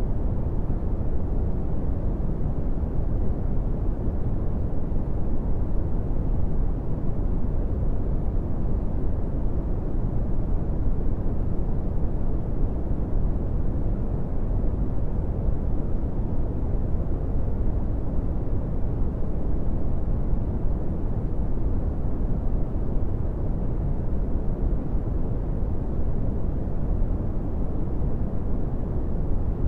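Steady brown noise: an even, deep rumbling hiss with most of its energy in the low end and little above a thousand hertz, unchanging throughout.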